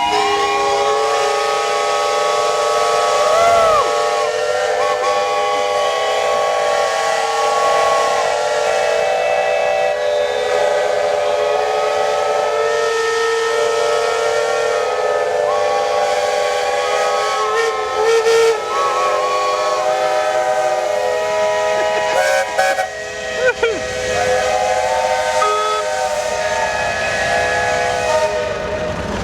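Many steam engine whistles blowing together, their different pitches held in one long, loud, steady chord, with a few sliding briefly up or down. It is the noon signal.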